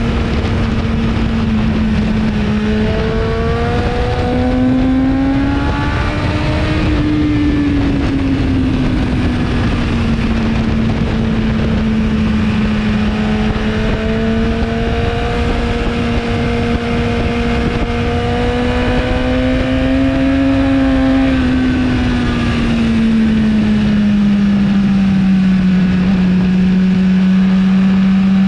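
On-board sound of a 2017 BMW S1000RR's inline-four engine through its Akrapovic exhaust, running hard at track speed under heavy wind rush. The engine note climbs twice as the bike accelerates, the second climb long and drawn out, and each climb breaks off.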